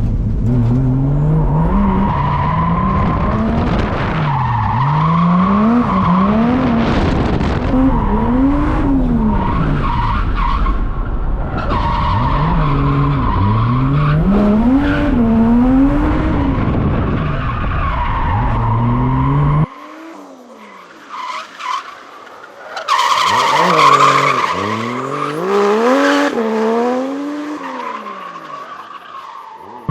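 Drift car engine revving up and down over and over as it is driven through corners, with tires squealing through the slides. About two-thirds of the way in, the engine's low rumble cuts out abruptly and the sound goes quieter, then a loud tire screech rises over the revs.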